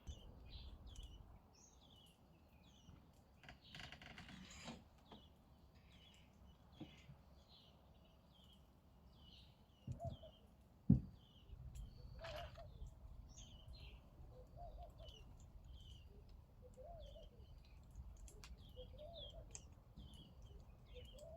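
Faint birdsong: many small birds giving short, high chirps over and over, joined in the second half by lower calls. A single sharp knock about eleven seconds in.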